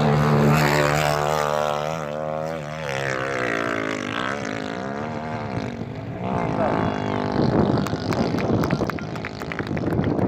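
Vehicle engine revving hard, its pitch rising and falling repeatedly. From about seven and a half seconds in it turns to a rougher noise with rapid crackling clicks.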